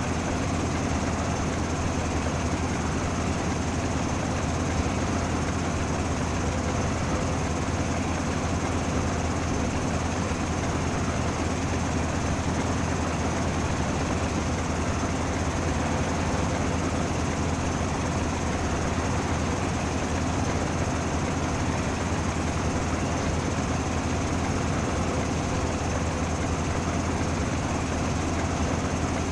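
A train's steady low drone with a faint high whine over it, running without change.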